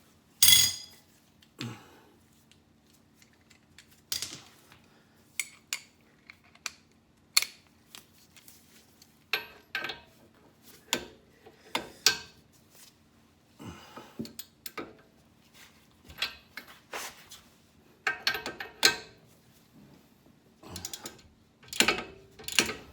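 Metal hand tools clinking and knocking against car suspension hardware in irregular sharp bursts, the loudest about half a second in.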